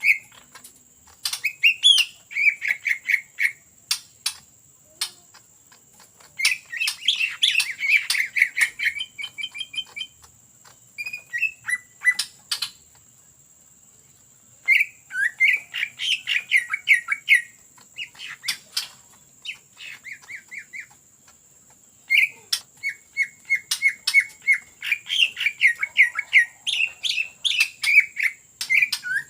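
Greater green leafbird (cucak ijo) singing in runs of fast, sharply repeated notes, the rapid 'ngetrok' song, broken by short pauses. A faint steady high whine runs underneath.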